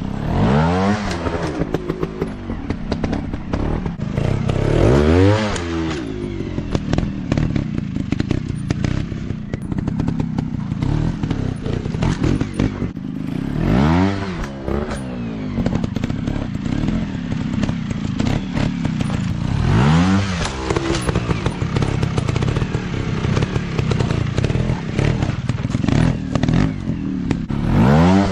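Off-road dirt bike engine running hard, blipped up and back down in sharp revs about five times over a steady drone, with frequent clicks and knocks throughout.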